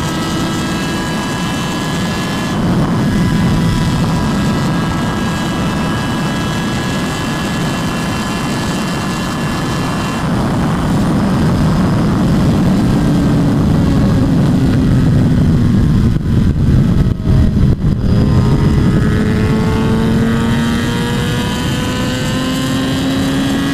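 Motorcycle engine running under way, its note sinking slowly and then climbing again near the end, under a heavy wind roar on the microphone that chops up briefly a little past the middle.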